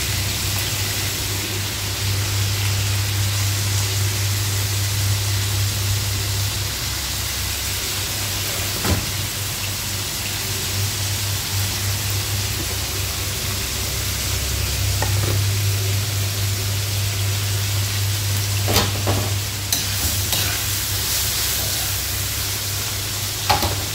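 Pork and onion sizzling in hot oil in a nonstick wok: a steady frying hiss over a low hum. A few short scrapes or clicks of a spoon stirring the pan, the last ones near the end.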